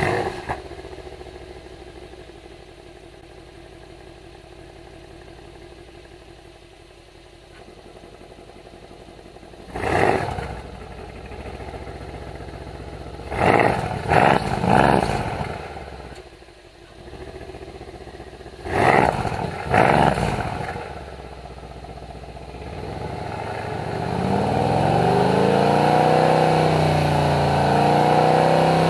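Mercedes-AMG C63 S twin-turbo V8 flaring at start-up and settling to a steady idle. It is then blipped: one rev about ten seconds in, three quick blips a few seconds later, two more near the twenty-second mark. Near the end it is held at high revs for several seconds.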